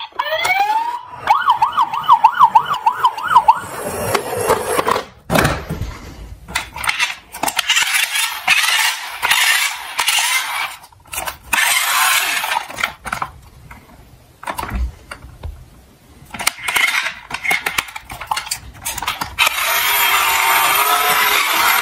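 A siren wails for the first few seconds, then small diecast toy cars clatter, click and knock against each other and a hard surface in irregular bursts. A steady hum comes in near the end.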